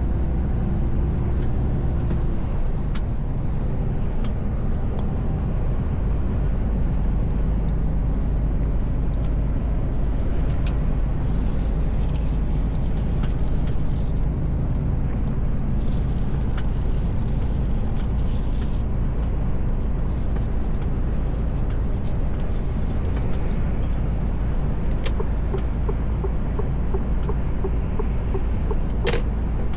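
Mercedes Actros L truck cab on the move: steady diesel engine and road rumble, with a few faint ticks and a sharper click near the end.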